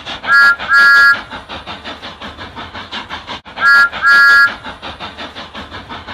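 Steam locomotive whistle blowing a short then a long blast, twice over, with steady rapid chuffing of the engine running underneath.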